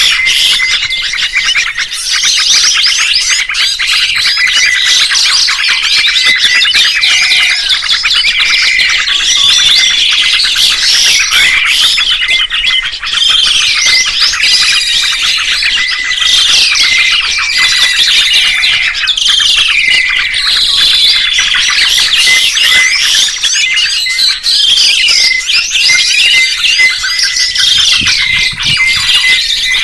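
Songbirds singing: a dense, unbroken run of rapid chirps and whistled notes that sweep up and down in pitch.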